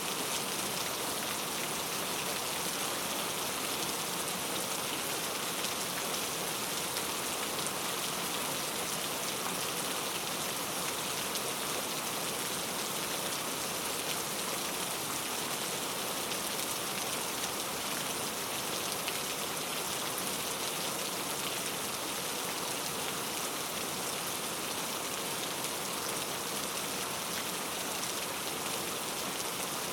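Steady rainforest rain, an even, unbroken hiss of falling drops.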